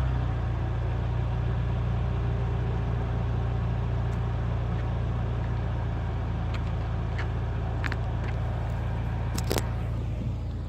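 2008 Honda Fit's four-cylinder engine idling steadily through a muffler-delete exhaust, with a low, even exhaust note. A few light clicks sound in the second half.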